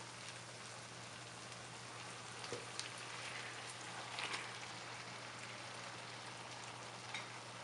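Tomato masala and oil sizzling steadily in a wok, with a few louder crackles about halfway through as marinated chicken pieces are tipped into the hot pan.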